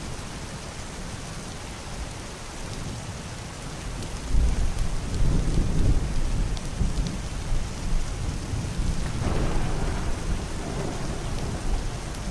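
Heavy rain hissing steadily on a wooden roof and window glass, with a few sharper drop ticks. Deep, muffled thunder rolls in about four seconds in and swells again near nine seconds.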